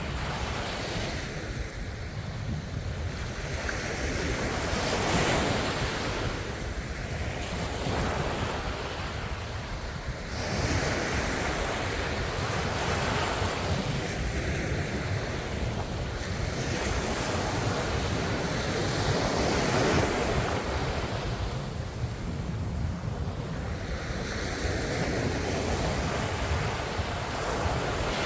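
Ocean waves breaking on the shore, washing in and ebbing several times, each surge a few seconds long, over a steady low rumble of surf.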